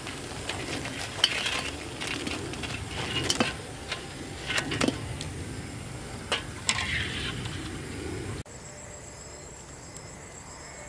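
Deep-fried bread rolls sizzling, with sharp clinks and knocks of a metal slotted ladle against a steel bowl and wok as they are tipped out. About eight and a half seconds in this cuts off suddenly to crickets chirping steadily.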